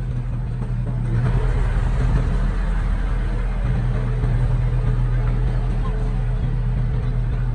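Diesel engine of heavy earthmoving equipment running steadily, growing louder about a second in.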